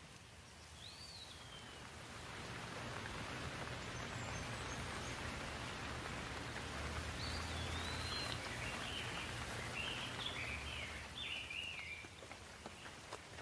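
Outdoor ambience: a steady rushing noise that swells for several seconds and eases off near the end, with birds chirping about a second in and several times in the second half.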